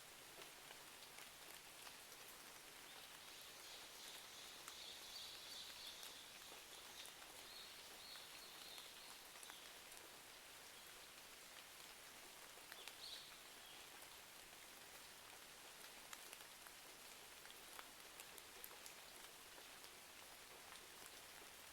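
Faint steady rain, with scattered small crackles and drips throughout. A faint high-pitched sound comes in between about three and ten seconds in.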